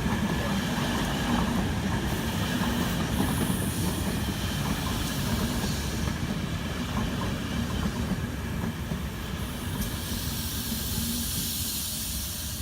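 Passenger train running along the track through the station, a steady low rumble that slowly fades near the end, with a hiss over it that grows stronger toward the end.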